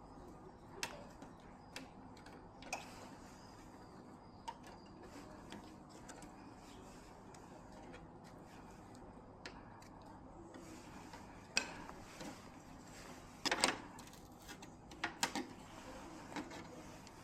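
Scattered light clicks and taps of small hard objects being handled, with a louder short cluster of clatter late on.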